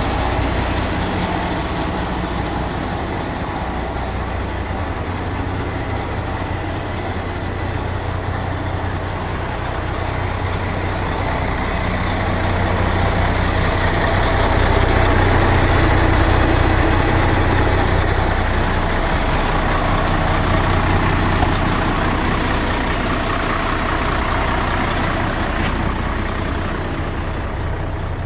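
Mercedes-Benz Actros 2643 tipper truck's diesel engine idling steadily, growing somewhat louder about halfway through and easing off again.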